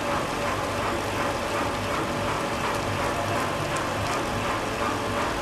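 Train-washing plant machinery running: a steady mechanical noise with a low hum, a constant mid-pitched tone and faint scattered ticks.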